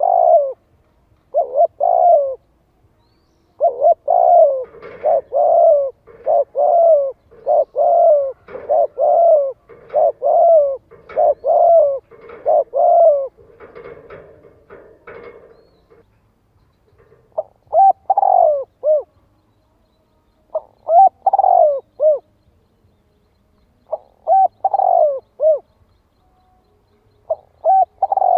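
Spotted dove cooing as a lure call to draw wild doves into answering: a fast, unbroken run of repeated coos, then shorter phrases of three or four coos with pauses between them in the second half.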